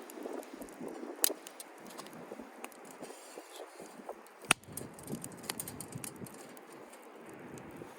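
Softwood campfire crackling, with scattered small ticks and two sharp pops, about a second in and midway.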